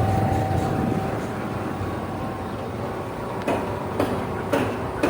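Street traffic noise: a motor vehicle's low rumble that fades away over the first couple of seconds, followed by a few short sharp clicks about half a second apart near the end.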